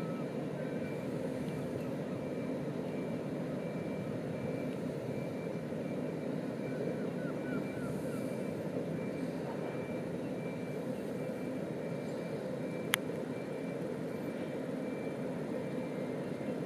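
Hitachi Class 803 electric train running slowly past at a distance: a steady low rumble.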